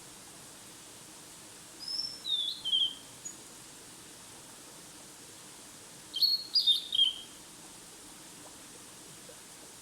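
A small songbird singing two short phrases of high, quick falling notes, about two seconds in and again about six seconds in, over a faint steady background hiss.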